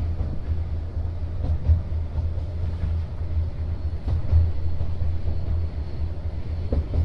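Sleeper train running, heard from on board: a steady low rumble with a couple of louder knocks along the way.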